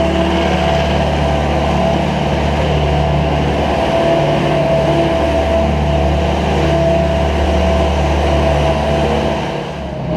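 Engine of the machine scraping manure along the barn alleyways, running steadily, easing off slightly near the end.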